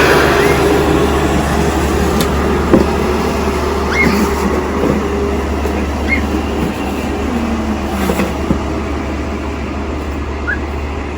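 A steady low rumble with a broad hiss, like a running vehicle, with a few brief faint chirps over it.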